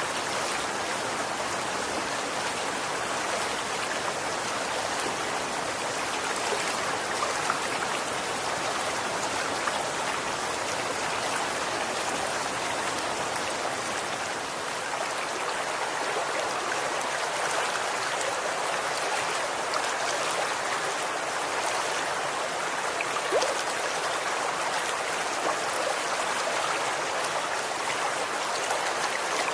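Running water: a steady rushing flow, with a few brief louder splashes.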